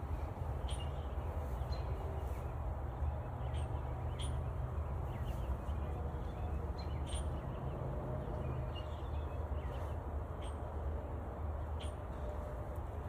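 Birds chirping now and then, short high calls scattered through, over a steady low rumble.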